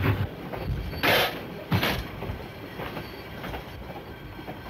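Old wooden passenger coaches rolling slowly on the rails with a steady clatter. About a second in come two short, loud hisses a little over half a second apart.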